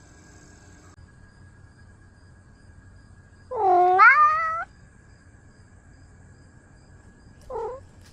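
Domestic cat meowing: one long meow of about a second that rises in pitch, then a short, quieter meow near the end.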